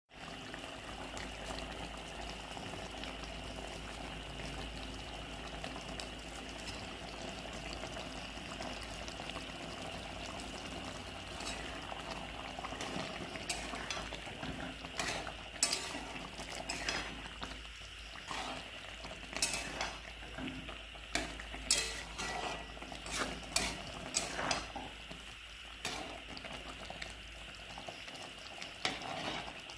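Chicken cooking in a pot with a steady sizzle and bubbling. From about halfway, a spoon stirs it and repeatedly clinks and scrapes against the pot.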